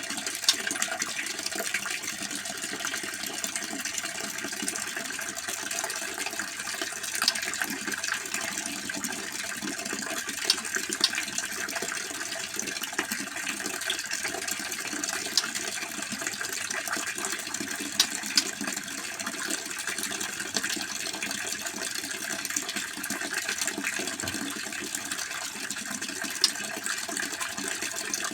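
Steady running-water noise, with a sharp click every few seconds.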